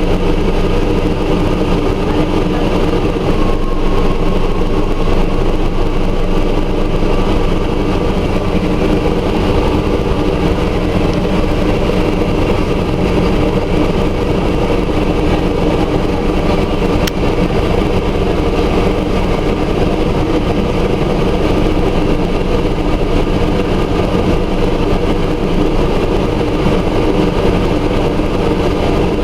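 Scania Omnidekka double-decker bus's diesel engine running steadily at a constant pitch, with a low rumble beneath it. A brief tick sounds once about seventeen seconds in.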